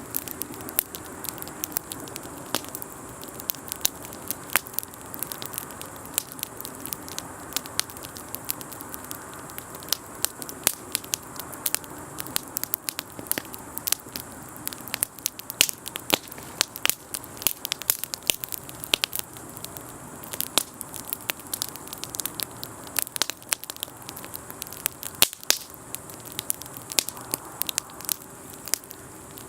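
Campfire crackling, with many sharp, irregular pops over a steady soft hiss.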